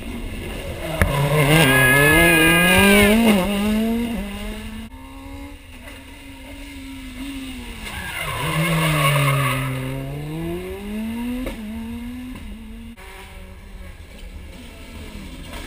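Rally car engine working through hairpins. The revs climb hard near the start, fall away, and later dip low before climbing again as the car accelerates out of a bend. The revs cut off sharply near the end, with the car fading out.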